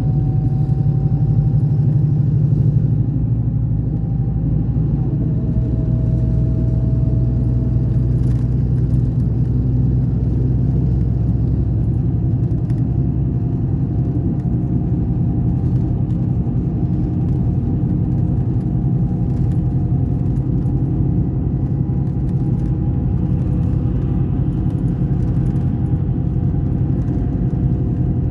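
Scania K420 coach's rear-mounted six-cylinder diesel engine running steadily, a low drone with a faint higher whine; it eases off a little about three seconds in.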